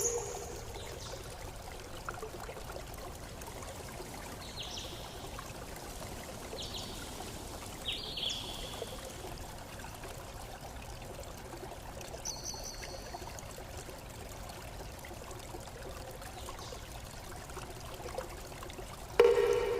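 Steady running water, like a stream, with a few short high chirps. A single bell-like chime is struck near the end and rings out.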